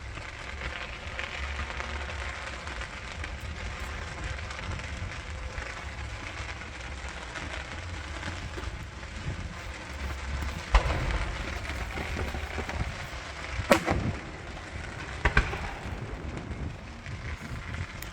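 Distant fireworks going off: a handful of sharp bangs in the second half, the loudest a quick double bang, over a steady low rumble.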